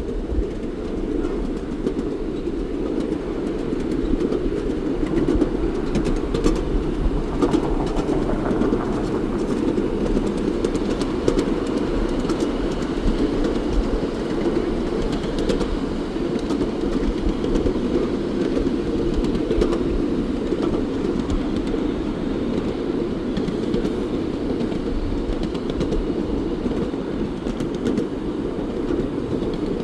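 Train running along the rails: a continuous steady rumble with scattered sharp clicks.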